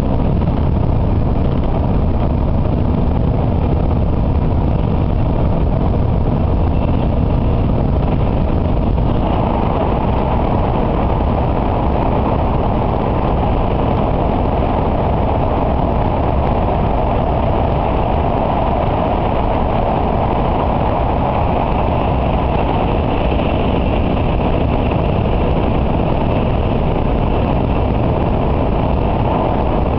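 Cabin noise of an N700A Shinkansen running at speed: a steady rush of running and air noise. About nine seconds in it grows heavier in the middle range as the train enters a tunnel.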